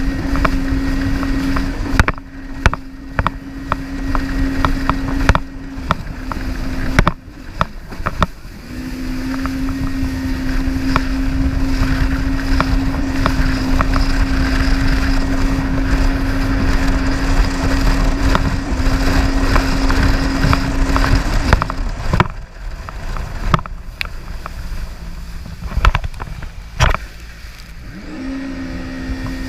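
Jet ski engine running with a steady drone that drops away for a few seconds several times, including a longer gap near the end, over a heavy rumble of water and many sharp knocks.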